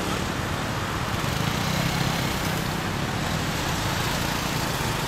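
Motorcycle engines idling at a traffic light: a steady low hum over street traffic noise.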